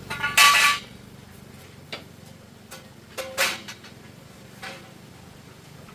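Pieces of metal clanking as they are handled: a loud ringing clank about half a second in, a second one a little after three seconds, and smaller knocks between.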